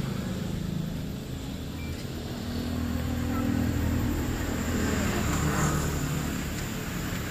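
A car running: a steady low engine and road drone that swells a little midway, then eases.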